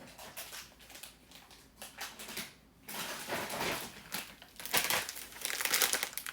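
Plastic candy packaging crinkling as it is handled, in scattered crackles at first and then denser and louder over the last few seconds.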